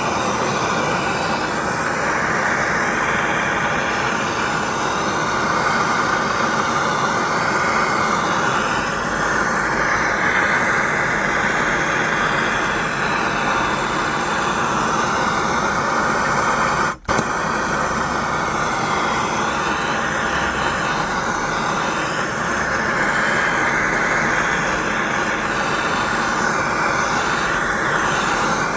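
A handheld gas torch roaring steadily as it heats the seized crank bearing to free it from the crankshaft. The sound cuts out for an instant about 17 seconds in.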